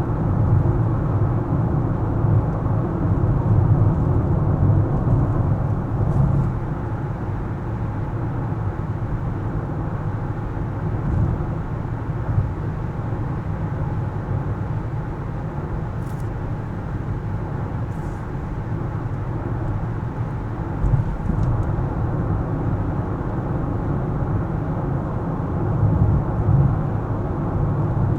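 Steady low rumble of a car being driven on city streets, from its engine and tyres. It is a little louder in the first few seconds and again near the end.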